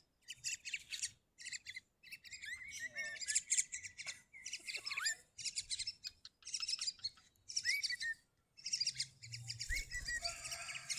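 Pet bird chattering in quick bursts of high chirps and short gliding notes, with brief pauses between bursts.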